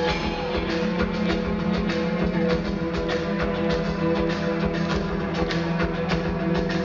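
Rock band playing an instrumental passage: electric guitars over a steady drum beat, with no singing.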